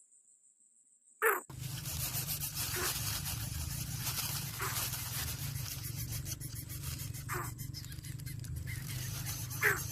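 Short animal calls, each a quick sweep in pitch, repeating about every two seconds over a steady low hum and hiss that starts about a second and a half in.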